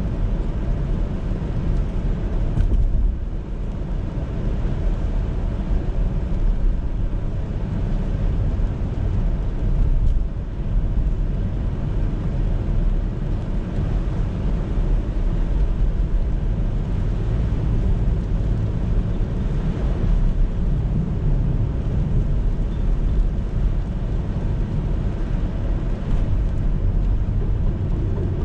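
Car driving on a city road: a steady low rumble of tyre and engine noise, with brief louder moments about three and about ten seconds in.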